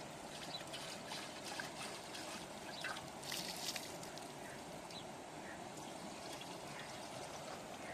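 Water running steadily, like a small stream, with scattered short high splashes or clicks, a cluster of them about three and a half seconds in.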